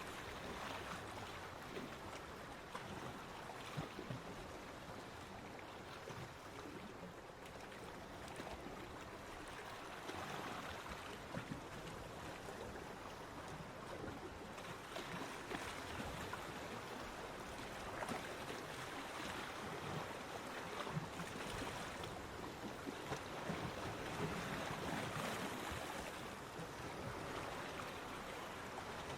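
Ocean waves washing onto a beach: a steady hiss of surf that swells and eases every few seconds.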